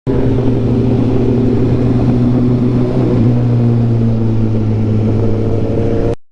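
Motorcycle engine running at a steady speed while riding, an even drone that holds one pitch throughout and starts and stops abruptly.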